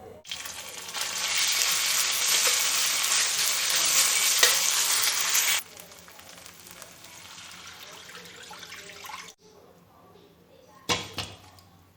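Loud steady sizzling, like food frying in hot oil, that starts abruptly and cuts off sharply about five and a half seconds in, followed by quieter low-level sound. Near the end come two short sharp knocks.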